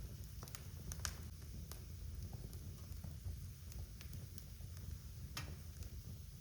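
Wood fire crackling in a fireplace: scattered sharp pops over a steady low rumble of the flames. One louder pop comes about a second in and another near the end.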